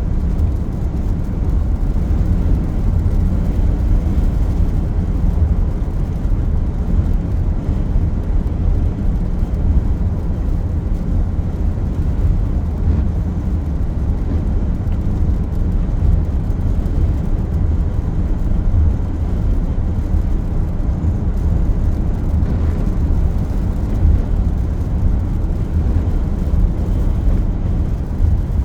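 Car driving at highway speed, heard from inside the cabin: a steady low rumble of road and engine noise, with strong gusty wind buffeting the car.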